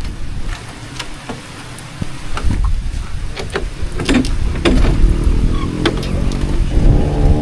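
Heavy rainstorm: a deep rumble of wind and rain with the sharp ticks of drops striking. A low, steady hum rises in over the last two seconds or so.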